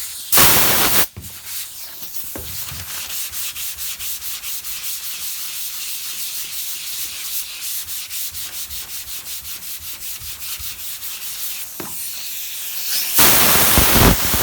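Sandpaper on a hand sanding block rubbing back and forth over primed automotive sheet metal on a car roof, in quick, even strokes about four a second, with louder, harder passes near the start and near the end. The panel is being block sanded to knock down the high spots before paint.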